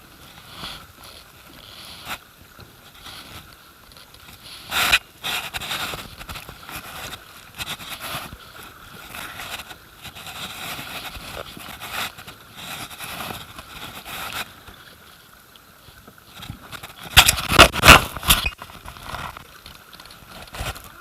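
Kayak on a river: water noise and paddle handling, with a short loud splash about five seconds in and a louder run of sharp splashes and knocks near the end.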